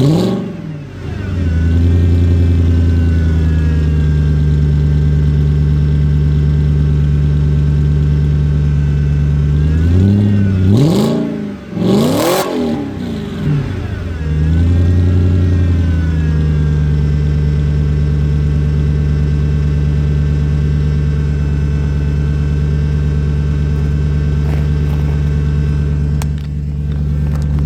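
Audi turbocharged V8 fast-idling on a cold start. It drops back from a rev at the start, is blipped sharply three times about ten seconds in, then settles to a steady idle.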